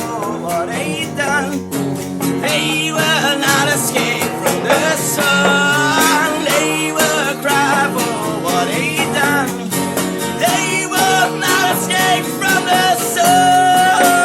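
Rock band playing a grunge song: guitars over a steady lower part, with a wavering, bending lead melody on top.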